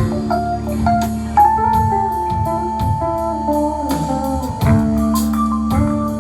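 A live band playing during a sound check, led by guitar over a steady beat. A long note is held from about a second and a half in until nearly five seconds in.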